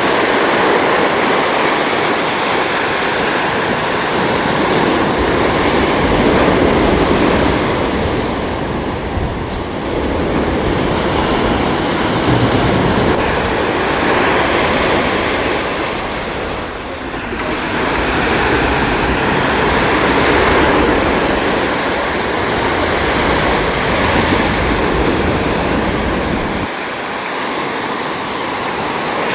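Ocean surf washing in continuously, swelling and easing in waves every several seconds.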